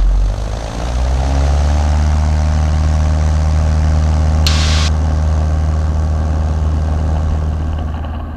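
Piper PA-22 Tri-Pacer's piston engine and propeller going to full power for the takeoff roll, the drone rising in pitch over the first couple of seconds and then holding steady. A brief hiss about halfway through.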